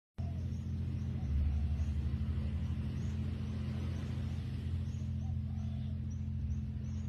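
A motor running steadily with a low, even hum that swells briefly about a second in. Faint repeated high chirps sound above it.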